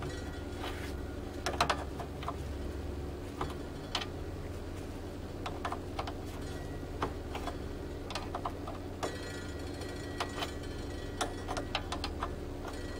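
Needle-nose pliers turning a small 5 or 6 mm tension nut on an embroidery machine's X-cable: scattered, irregular small metal clicks and taps, with a brief run of fine rapid ticking about nine seconds in, over a steady low hum.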